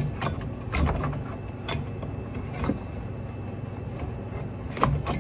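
Sharp metal clicks and knocks from a hand tool and parts as the old condenser fan motor's Torx screws come out and the motor is worked loose, over a steady low hum.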